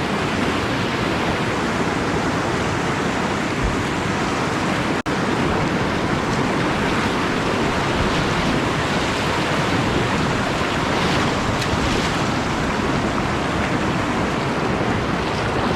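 Steady, loud rush of whitewater from a river rapid, with a momentary dropout about five seconds in.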